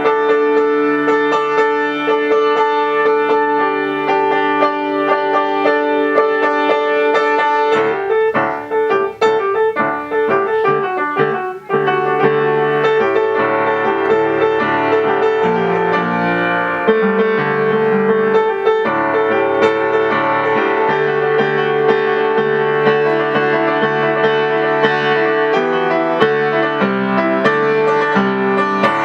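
Solo piano playing an original composition: continuous sustained notes, with a busier, choppier passage about a third of the way in.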